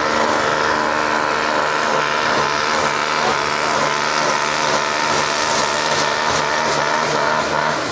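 Farm tractor's diesel engine running hard at steady, high revs during a tractor pull.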